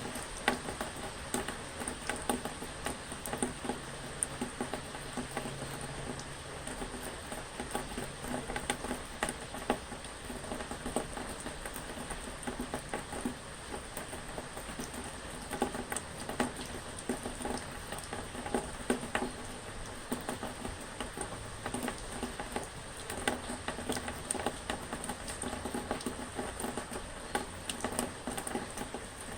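Steady rain pattering, with many small drops ticking irregularly.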